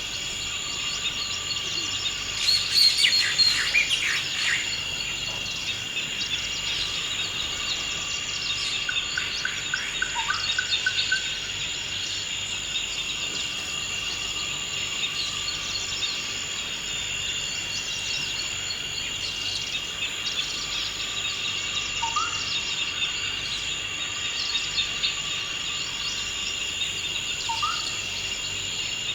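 Forest ambience of a steady, high-pitched insect drone with bird calls over it: a burst of high chirps about three seconds in, a short even trill around ten seconds, and a few brief rising whistles later on.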